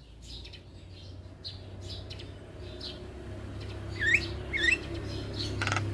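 Javan myna calls: faint scattered clicks, then two short curving whistled notes about four seconds in, over a low steady hum.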